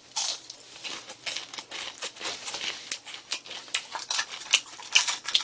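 Crunchy chewing of deep-fried battered food close to the microphone: a fast, irregular run of crisp crackles.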